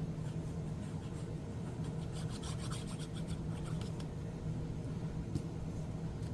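Paper rubbing and scratching on the desk as pieces are handled and pressed down, with a run of quick scratchy strokes about two seconds in, over a steady low hum.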